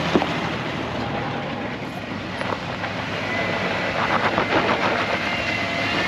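Off-road vehicle engine running under load as it crawls up a rocky trail climb, with scattered knocks and crunches partway through.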